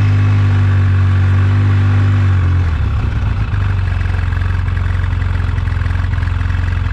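Polaris RZR 800 S twin-cylinder engine running steadily; about two and a half seconds in its note drops slightly and turns rougher, with a faint clatter through it.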